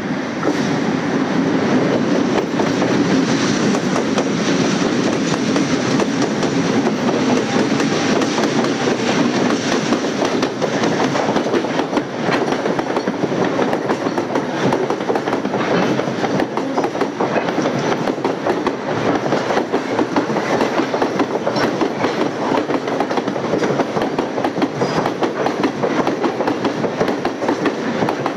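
Freight train wagons rolling past at a steady level, wheels clattering over the rail joints in a continuous clickety-clack.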